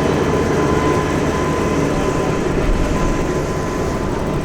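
M3 amphibious rig's heavy diesel engine running steadily, a constant low hum with a faint high tone over it.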